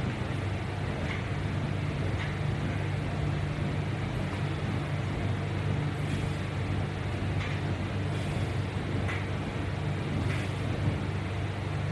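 A steady low hum, with faint light clicks every second or two.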